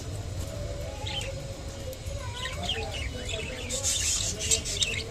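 Budgerigar chirping in short calls over a soft, wavering warble, with a brief scratchy noise about four seconds in.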